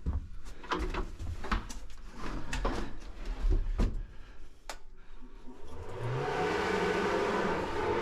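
Knocks and clattering of handled objects, then about six seconds in a motor starts up, rising quickly in pitch, and runs steadily.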